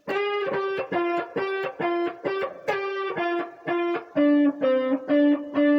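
Guitar playing a blues lick: a run of single plucked notes, about four a second, with short slides between them, settling into longer held notes near the end.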